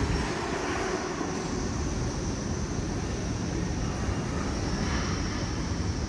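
Steady rumble of busy city street traffic.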